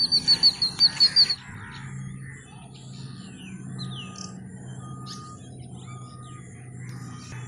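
Birds chirping: a fast run of loud, high chirps in the first second and a half, then quieter scattered bird calls, including a short flat note repeated about once a second.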